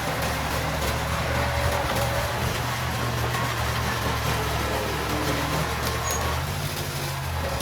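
Diesel engine of heavy earthmoving equipment running steadily with a low, even drone.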